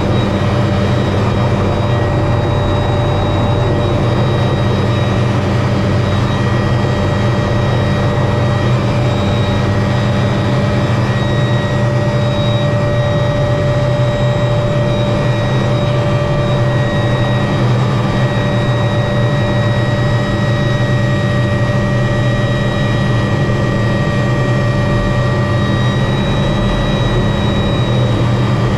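Helicopter in flight heard from inside the cabin: the engine's steady high whine over the low, even drone of the rotors, holding constant throughout.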